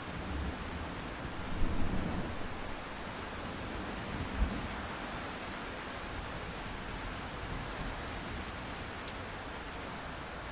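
Steady heavy rain, with a low rumble of thunder about a second and a half in.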